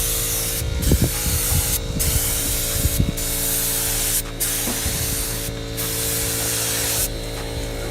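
Paint spraying onto a car body: a steady hiss of spray in passes of about a second, broken by brief pauses, that stops about seven seconds in. A steady low hum runs underneath.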